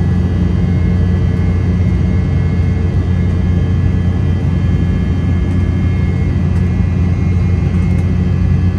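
Cabin noise inside an Embraer E190 airliner in flight after takeoff: a steady low rumble from airflow and its twin turbofan engines, with a faint steady whine above it.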